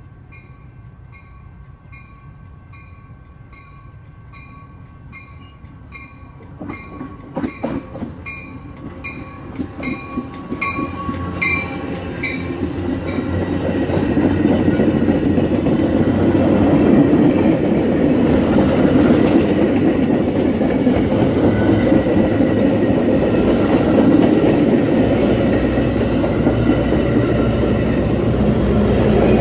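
Metra commuter train of bi-level stainless-steel cars approaching and passing at speed. At first a bell rings in steady strokes, just under two a second. From about seven seconds in, wheels click sharply over the rail joints, building into a loud steady rumble of the cars rolling close by.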